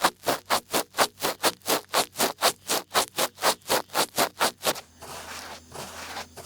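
Close-up ear-picking sounds: an ear pick scratching in rhythmic strokes, about four a second. About five seconds in, these give way to a continuous, softer scratchy rustle.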